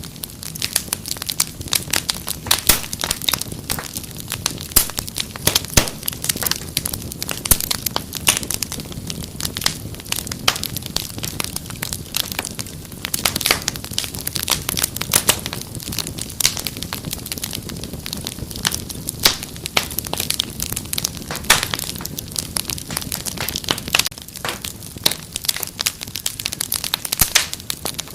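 Wood fire crackling steadily: dense, irregular pops and snaps over a soft low rumble of burning.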